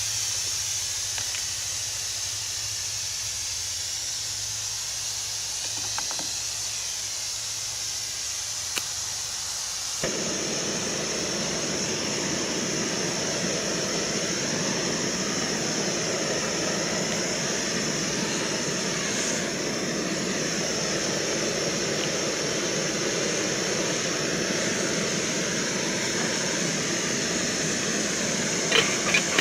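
MSR Pocket Rocket gas canister stove burning with a steady hiss, which turns suddenly louder and deeper about ten seconds in and holds there. A few light ticks come through, two of them near the end.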